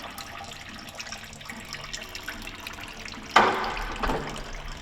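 Engine coolant splashing and running out of a diesel engine onto the floor, with a sudden louder splash about three and a half seconds in.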